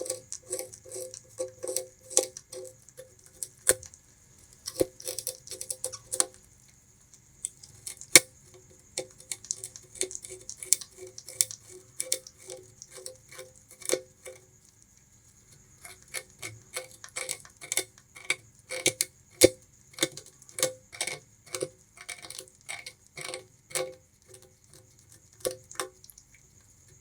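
Bamboo rat gnawing and chewing sugarcane: sharp crisp crunches at a few per second, with short pauses between bites about a quarter of the way through and again about halfway.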